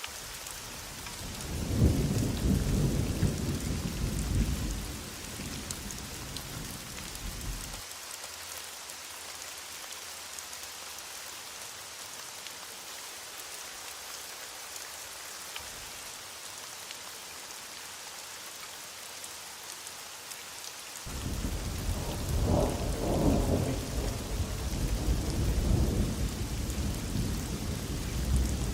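Heavy rain falling steadily, with two long rolls of distant thunder. The first starts about a second and a half in and stops abruptly several seconds later; the second begins about two-thirds of the way through and is still rolling at the end.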